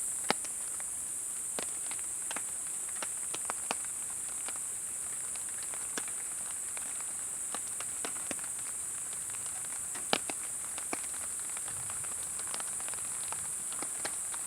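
Scattered sharp ticks and pops of rain dripping and a campfire crackling, irregular and a few each second, with a louder pop about ten seconds in. Behind them runs a steady high-pitched insect chorus.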